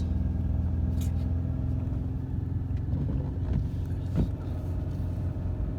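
Ford's engine running steadily under load as the car climbs a steep snowy road, heard from inside the cabin, with a couple of brief clicks.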